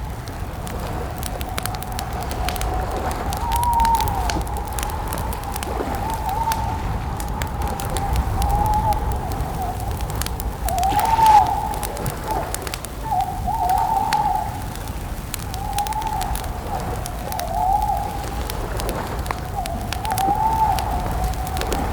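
Campfire crackling, with an owl hooting: short arched calls every second or two over a steady low rumble.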